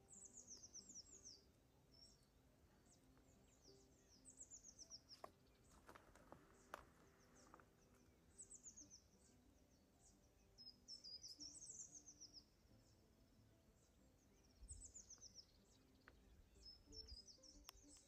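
Faint songbird song: short, high-pitched trilled phrases that fall in pitch, repeated every second or two. Soft background music with held notes plays underneath.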